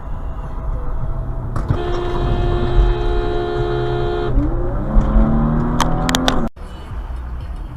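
Car horn held for about two and a half seconds over traffic and engine noise, followed by a rising whine. The sound cuts off abruptly about six and a half seconds in, then the road noise carries on.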